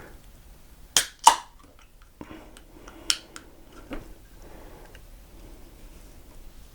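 A few sharp clicks and knocks of a beer bottle and glass being handled: two loud ones close together about a second in, another sharp one about three seconds in and a softer knock just after.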